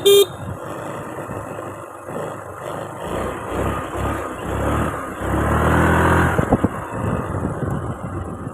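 Road traffic and wind noise during a motorcycle ride. A vehicle horn gives a short honk right at the start. About five seconds in, an engine swells louder for a second or so, then fades.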